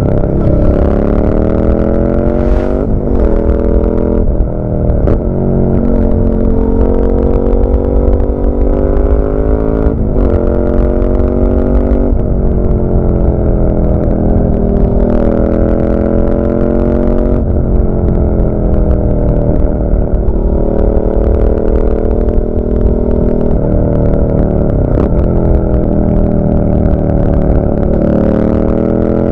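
Suzuki SV650's 645 cc V-twin with an SC-Project carbon oval silencer and dB killer, accelerating hard through the gears. The revs climb and drop sharply at each upshift, about every two to five seconds, with a few easier stretches in between.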